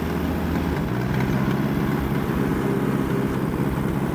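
Allis-Chalmers D14 tractor's four-cylinder engine running steadily, its note shifting slightly about a second in.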